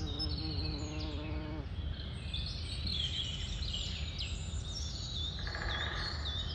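Birdsong: many short, high chirps and trills overlapping, over a steady low rumble. A lower call sounds in the first second or two, and a brief buzz comes about five and a half seconds in.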